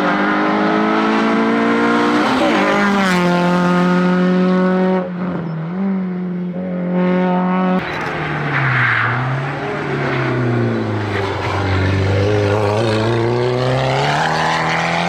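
Hillclimb race car's engine at full throttle, its pitch climbing and dropping sharply twice as it changes up. It then falls lower as the car slows and climbs again as it accelerates away near the end.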